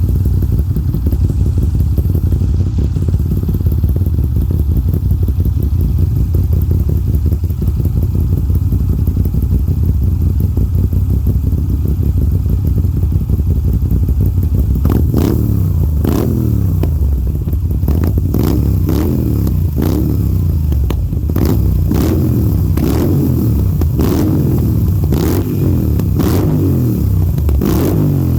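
Moto Guzzi transverse V-twin motorcycle engine idling steadily, then revved in a string of about a dozen quick throttle blips, roughly one a second, each falling back toward idle, from about halfway through.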